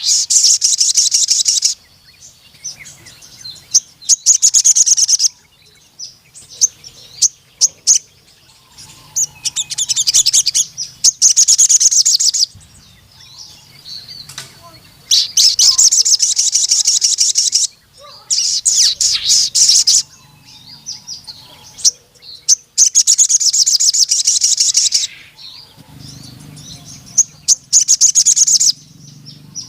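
A male sogon (ruby-cheeked sunbird) in full song. It sings long, high-pitched bursts of very rapid notes, each lasting a couple of seconds, over and over with short pauses between.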